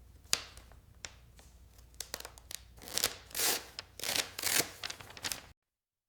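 Handling noise: a sharp click, then scattered taps and short scraping noises that grow busier about three seconds in, before the sound cuts off abruptly.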